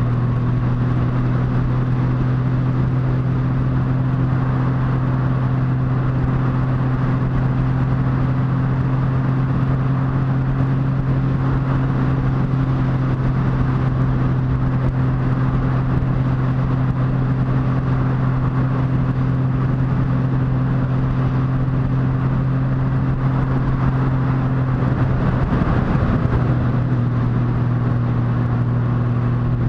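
Motorcycle engine running at a steady cruising speed, one unchanging note over wind and road noise. Near the end the engine note briefly wavers, then settles back.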